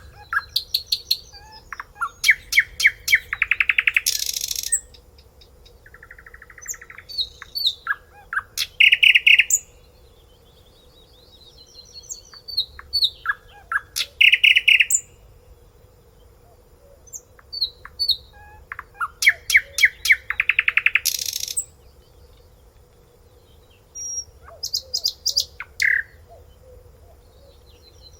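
Nightingale singing: loud phrases of rapid repeated notes and clear whistles, each lasting one to two seconds, with pauses of a few seconds between them.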